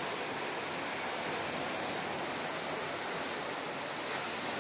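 Steady outdoor background rush: an even, unbroken noise with no distinct calls or knocks in it.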